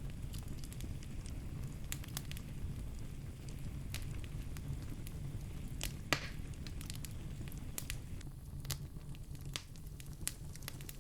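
Wood fire in a fireplace crackling, with a steady low rumble of burning and scattered sharp pops and snaps. One louder pop comes about six seconds in, followed by a brief hiss.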